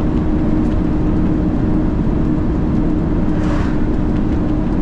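Heavy truck driving, heard from inside the cab: a steady diesel engine and road drone with a constant low hum, and a brief faint hiss about three and a half seconds in.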